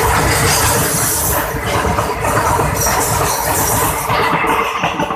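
Train running at speed past a long line of open freight wagons on the next track: a steady, loud rumble and rush of steel wheels on rail with some irregular clatter.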